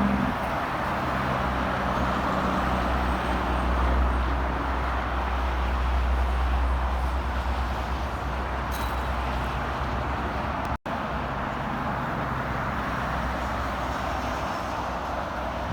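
Interstate highway traffic passing steadily: tyre roar from passing vehicles over the low drone of heavy diesel truck engines. The sound cuts out for a split second about two-thirds of the way in.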